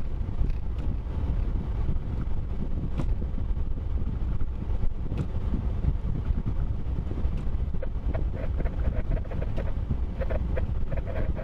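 Steady low rumble of a vehicle on the move, with scattered light clicks.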